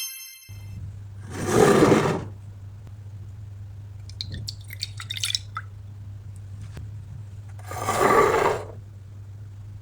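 Two pours of liquid into a mug, each lasting about a second, with a few light drips and ticks between them. A steady low hum runs underneath.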